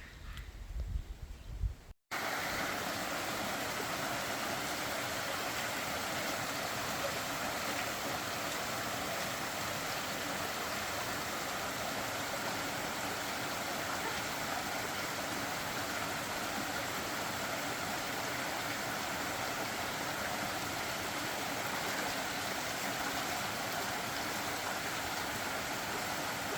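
Steady rushing of flowing stream water, an even unbroken noise. It begins after a brief low rumble and a sudden cut about two seconds in.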